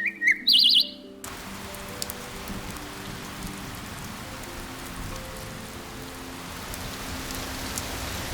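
A bird chirps a few times in the first second, then steady rain falls, an even hiss with scattered drop ticks, over soft background music.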